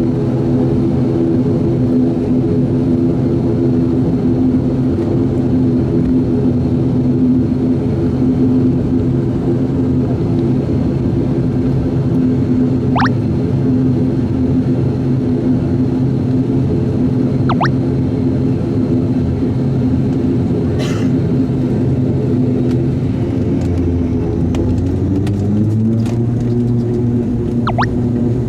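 ATR 42-600 twin turboprop engines and propellers heard inside the cabin: a loud, steady drone of low humming tones over a rumble. Near the end the tones rise in pitch as engine power changes.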